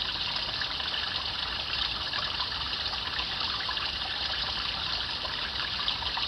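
Shallow stream babbling steadily: a continuous bright rush of trickling, splashing water.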